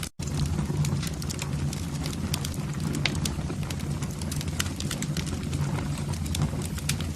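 Wood fire burning in a fireplace, with irregular crackles and pops over a steady low rumble of the flames. A brief dropout right at the start cuts the sound for an instant.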